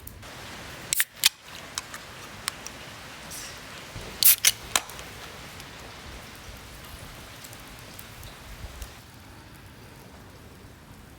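A few sharp, irregular clicks and snaps, the loudest pair about a second in and another pair about four seconds in, over a low steady background noise.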